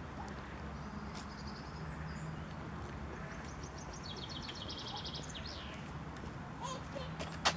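Park ambience: a steady low background hum, with a small songbird singing rapid trills of high repeated notes in the middle. A single sharp click sounds just before the end.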